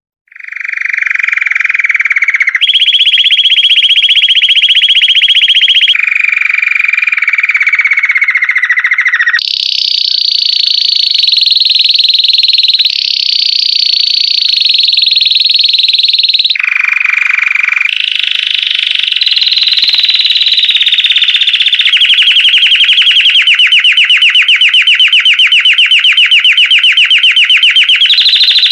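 Belgian canary (domestic canary) singing a long unbroken song of rapid trilled rolls. Each roll is held for a few seconds before the song jumps to a new pitch, and the song ends on a faster pulsing roll.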